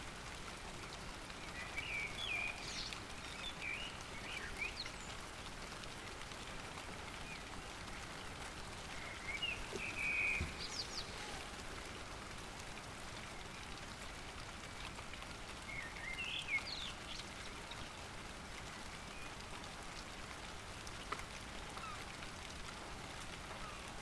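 Steady rain falling during a thunderstorm, with a bird giving bursts of short calls three times: about two seconds in, around ten seconds and around sixteen seconds.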